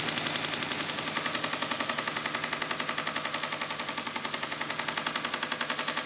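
Small belt sander running with a homemade belt, its iron-on fabric patch join ticking rapidly and evenly each time it comes round the rollers, over the motor's steady hum.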